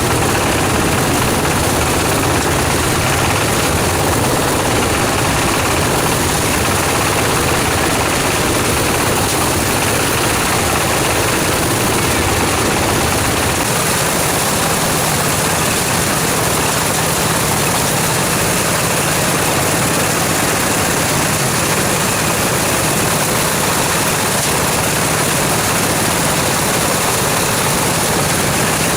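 An engine-driven machine running steadily and loudly, with no pauses or changes in pitch.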